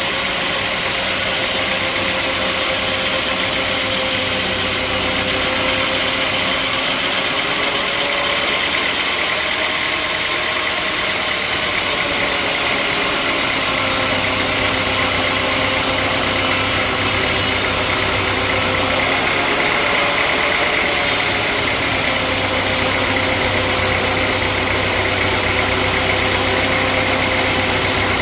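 Sawmill machinery's engine running steadily, its note dipping slightly now and then and recovering.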